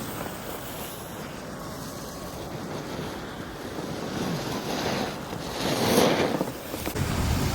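Wind rushing across the microphone while moving down a snow slope, a steady surf-like hiss that swells about five seconds in and eases again near six and a half.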